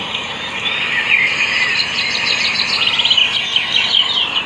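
Many birds chirping at once: a dense chorus of quick, high, overlapping chirps.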